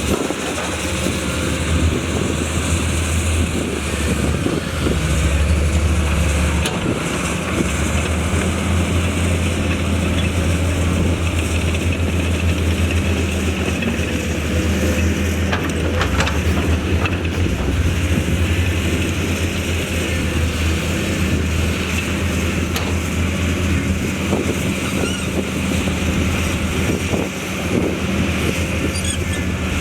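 Heavy diesel engine of earthmoving construction machinery running steadily under load, with a deep continuous drone.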